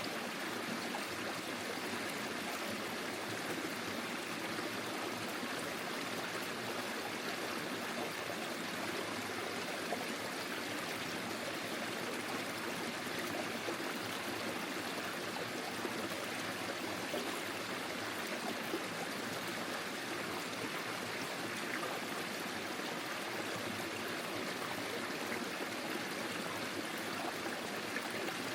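Forest stream flowing steadily over stones, a continuous babbling and trickling of water.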